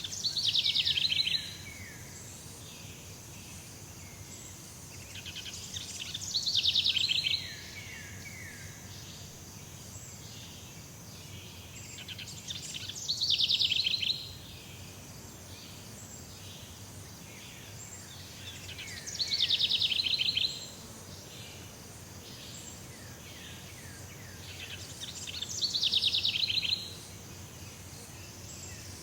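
Jungle ambience: a bird call, a rapid run of notes that rises and then slides down, comes five times at an even spacing of about six and a half seconds. A steady high insect drone runs underneath.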